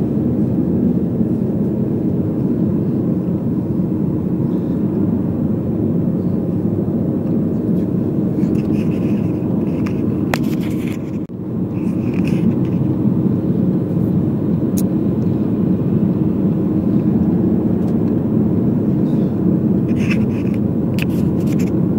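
Steady engine and road rumble of a moving car heard from inside, with a brief dip about eleven seconds in and a few scattered light clicks.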